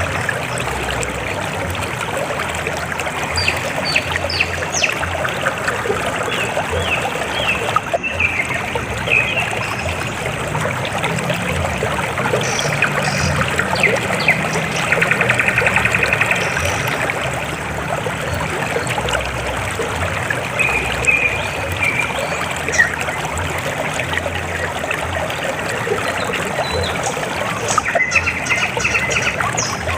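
River water flowing and trickling steadily, with birds chirping and trilling briefly now and then.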